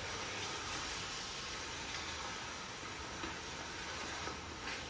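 Chicken pieces with ginger-garlic paste sizzling steadily in hot oil as they fry.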